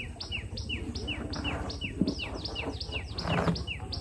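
Bird calls: a rapid series of short falling chirps, about three a second, in two overlapping voices, one higher and one lower. Under them is a low rumble, with a brief thump about halfway through and a short rustle near the end.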